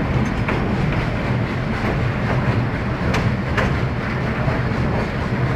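Narrow-gauge railroad passenger car rolling along the track: a steady rumble with a few sharp, unevenly spaced clicks of the wheels over the rails.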